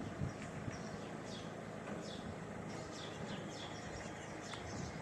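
Small birds chirping repeatedly, short high notes that each slide downward, over a steady low background hum.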